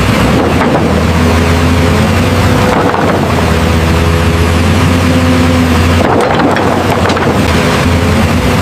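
Steady engine-like hum from a remote-control construction vehicle running, briefly broken by a noisier stretch about six seconds in.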